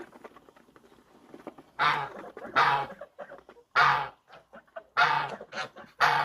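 Domestic ducks quacking: five loud calls, each about a third of a second long and roughly a second apart.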